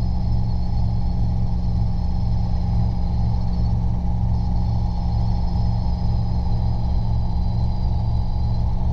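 Robinson R22 helicopter cabin noise under power in a climb: the steady drone of the piston engine and rotor with a fast low beat, and a thin high whine that drops out for about half a second a little before the middle.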